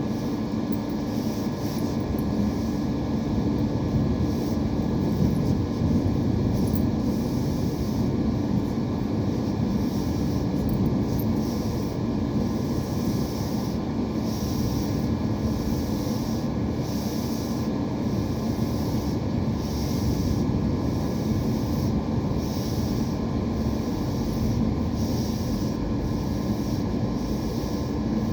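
Steady low rumble of a moving vehicle, with a faint hiss that pulses about once a second.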